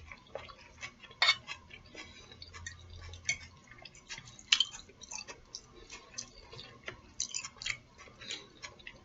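Close-up eating sounds: a person chewing, with irregular wet mouth smacks and clicks, a few of them sharper than the rest.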